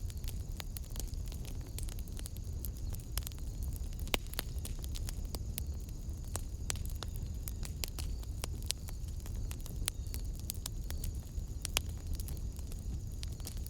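Wood fire burning in a fireplace: steady low rumble with irregular sharp crackles and pops, a few louder pops about four seconds in and near the end.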